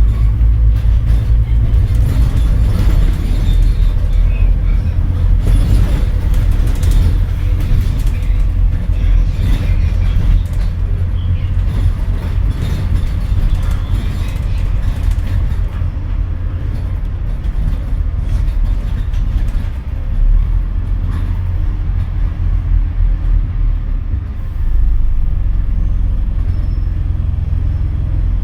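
Scania N230UD double-decker bus's diesel engine running under way, a deep steady drone heard from on board; the level dips briefly about twenty seconds in and drops again before picking back up near the end.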